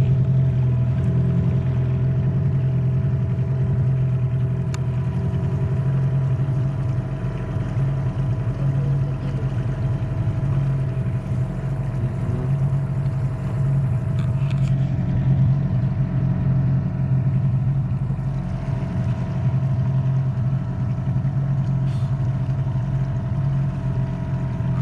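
A boat's outboard motor running steadily at an even speed while the boat moves along, with a constant hum over the motor's drone.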